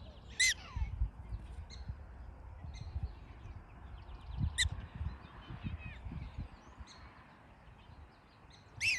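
Black-tailed prairie dogs giving short, high-pitched chirping barks: one just after the start, one about halfway through and one at the end.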